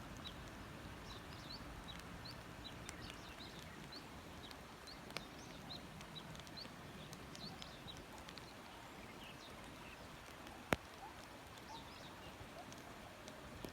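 Faint steady hiss of light rain, with many short, high rising chirps scattered throughout and occasional sharp ticks, the loudest about eleven seconds in.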